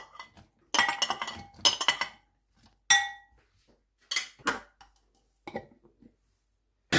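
Kitchen dishes and utensils clinking and knocking in about six separate clatters, some ringing briefly, as onions go into an electric food chopper's bowl. The chopper's motor starts right at the end.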